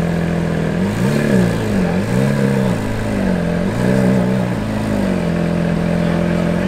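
Lamborghini Centenario's naturally aspirated V12 idling, blipped three times in quick succession, each rev rising and falling back, then settling to a steady idle again.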